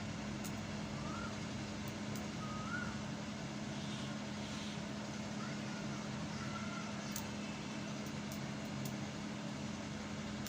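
Steady low electric hum of a pedestal fan's motor running while its speed windings are tested, with a few faint short chirps over it.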